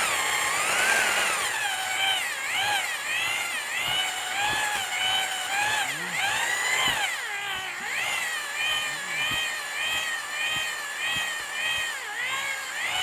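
Electric drill spinning an adjustable cylinder hone inside the bore of a Yamaha 250 outboard cylinder block. Its whine rises and falls in pitch over and over as the hone is stroked up and down the bore under load.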